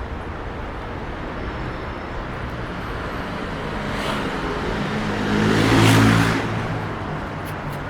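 A motor vehicle drives past close by, its engine and tyre noise building to its loudest about six seconds in and then fading.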